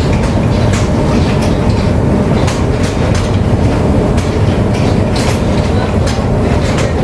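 Tea-processing machinery running: a loud, steady mechanical rumble with irregular rattling clicks throughout.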